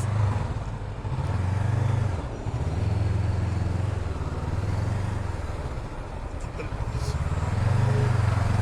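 Motorcycle engine running, a low rumble that swells and eases every second or two.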